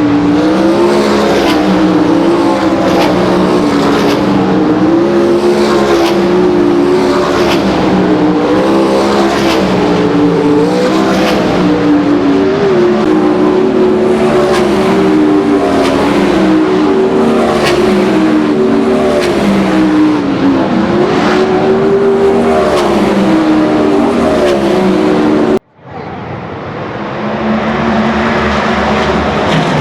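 Several sprint cars' V8 engines running together on the track, their pitch rising and falling again and again as they accelerate, lift and pass. Near the end the sound cuts out abruptly for a moment and comes back as a steadier engine note.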